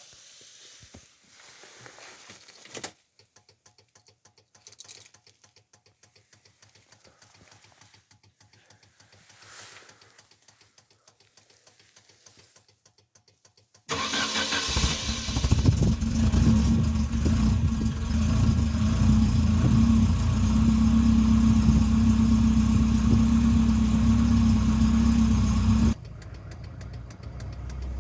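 Volvo 240 Polar engine cold-starting: after faint clicks it catches suddenly about halfway through and runs at a steady fast idle. Its level drops abruptly a couple of seconds before the end.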